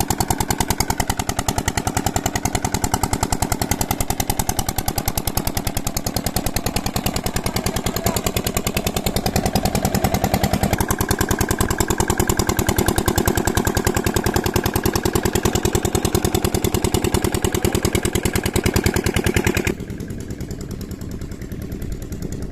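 An 8 hp diesel pump-set engine running steadily with a rapid, even chugging beat. Near the end it turns quieter and duller.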